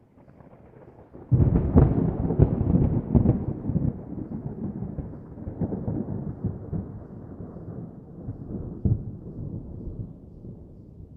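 Thunder from a nearby lightning strike: a sudden loud crack with crackling about a second in, then a long rumble slowly dying away, with one more sharp clap near the end.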